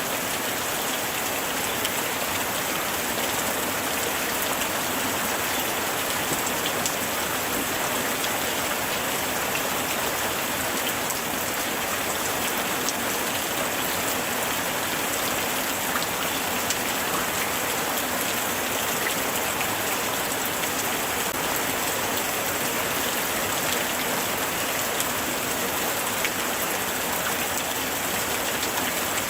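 Steady light rain falling on a surface, a dense even hiss of many small drop patters.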